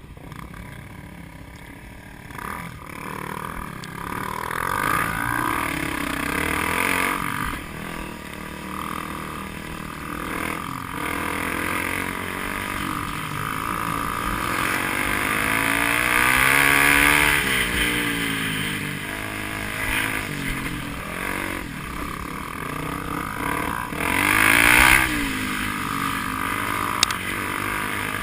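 Car engine revving hard as it accelerates and eases off, its pitch sweeping up and down, loudest around the middle and again in a brief surge near the end.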